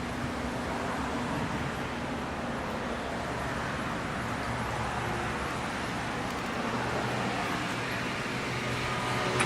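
Pierce fire engine's diesel engine idling steadily while parked, a continuous low hum under an even mechanical noise.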